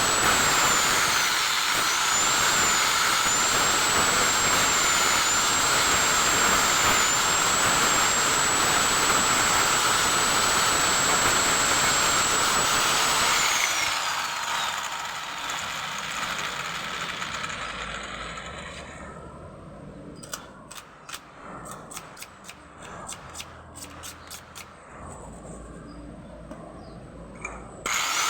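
A small high-speed power tool motor running with a high whine that sags briefly a couple of seconds in, then is switched off about halfway and winds down. A quieter stretch follows with a series of light clicks and taps, and the motor starts up again just before the end.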